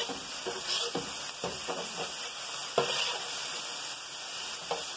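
Beef strips, onion and bell peppers sizzling on a very hot griddle while a spatula stirs them together, scraping and tapping on the griddle plate in short strokes.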